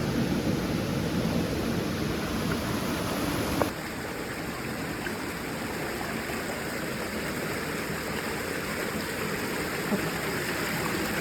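Steady rushing of a stream and small waterfalls. A brief click comes a bit under four seconds in, and the rush changes character abruptly at that point.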